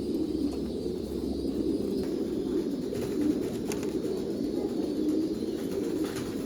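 Domestic pigeons cooing, many low coos overlapping without a break.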